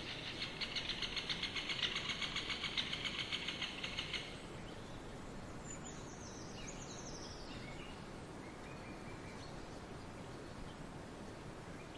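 Wild birds singing in a forest: a loud rapid trill for about the first four seconds, then a few short downslurred whistles, over steady outdoor background noise.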